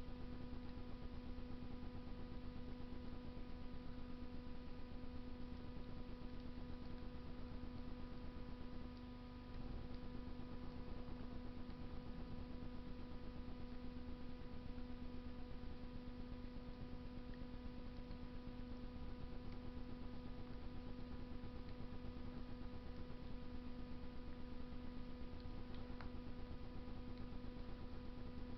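Wood fire burning in a Russian stove, with faint ticking crackles and a single small pop near the end, over a steady electrical hum.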